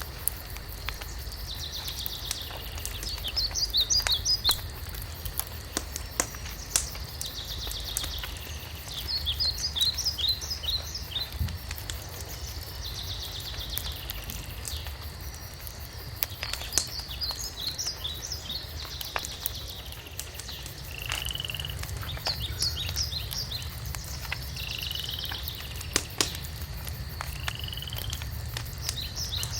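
A songbird singing the same short phrase over and over, a buzzy trill that breaks into a run of quick notes, about every five or six seconds. Under it a wood fire crackles with scattered sharp pops over a low steady rumble.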